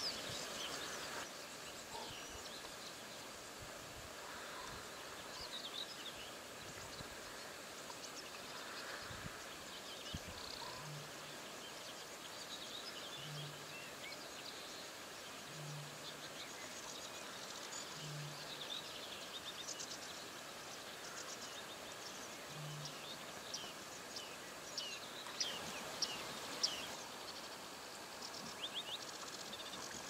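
Wild birds singing and calling in short chirps and trills over a steady outdoor background. In the middle, a low short hoot repeats five times, about two to four seconds apart.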